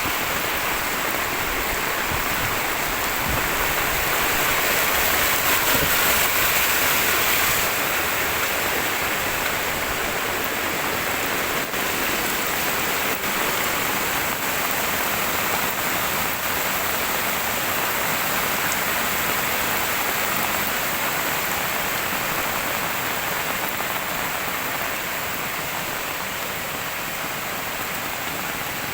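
Heavy rain falling steadily, a dense hiss of rain on surfaces, swelling louder for a few seconds about four seconds in and easing slightly towards the end.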